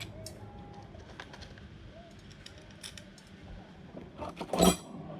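A dove cooing in the background, with scattered small clicks and a louder clatter near the end.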